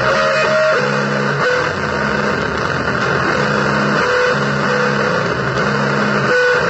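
Distorted, noisy blues guitar music: low notes or chords held for about a second at a time and repeated, over a thick haze of noise.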